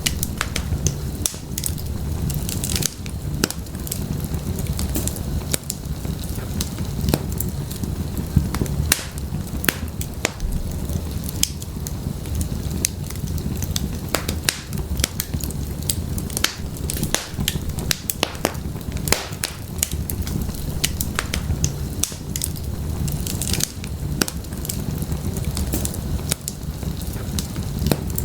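Wood fire burning in a fireplace, with many sharp, irregular crackles and pops over a steady low rumble of the flames.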